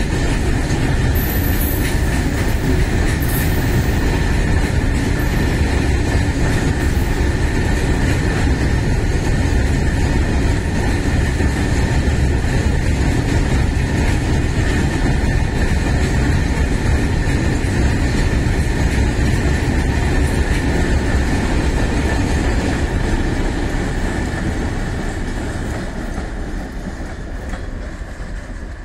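A long freight train of steel BOXNHL open wagons rolling past, a steady dense rumble of wheels on rail with a thin, steady high tone over it. The sound fades over the last few seconds as the brake van at the tail goes by and the train draws away.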